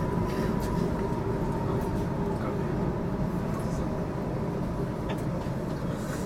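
Interior sound of an HTM GTL8 tram running: a steady low rumble with a faint steady hum above it and a few light clicks.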